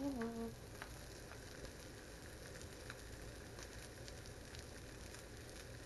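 Stingray wing pieces frying in hot grease in a pan: a steady, faint sizzle with scattered small pops and crackles of spattering grease.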